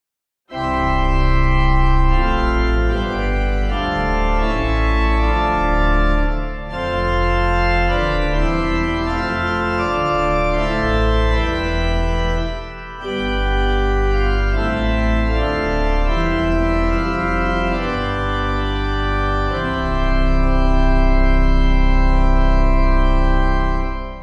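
Organ playing slow, sustained chords over deep bass notes, with short breaks between phrases about 6 and 13 seconds in. It starts just after the beginning and dies away at the end.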